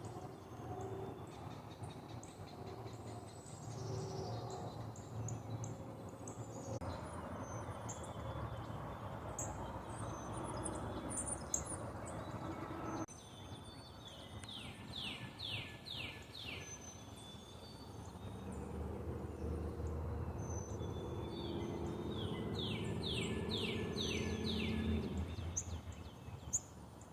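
Birds chirping and calling over steady low background noise, with a quick run of about five falling notes heard twice, once in the middle and once near the end.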